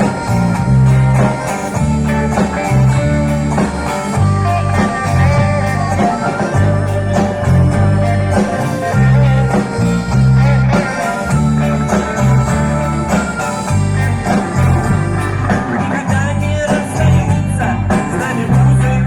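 Live music from a vocal-instrumental band: guitar over a pulsing bass line, with no transcribed lyrics.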